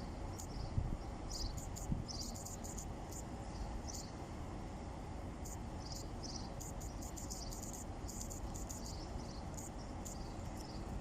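Outdoor ambience: short, high chirps repeating irregularly, typical of insects calling, over a steady low rumble.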